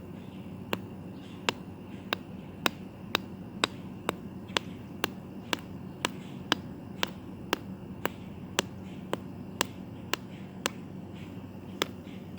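Sharp taps repeated about twice a second: a hard tool striking a hard surface over and over as an earthworm is stabbed and chopped up.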